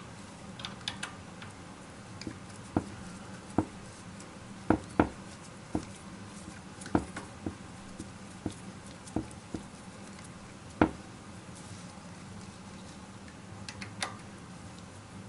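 Scattered sharp clicks and light metallic clinks, about a dozen at irregular intervals, over a steady low hum. They are the sound of hand tools and metal parts being handled while a boiler is reassembled.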